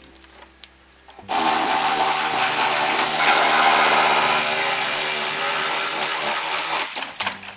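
A power tool runs loud and steady for about six seconds, starting just over a second in and stopping near the end, over background music.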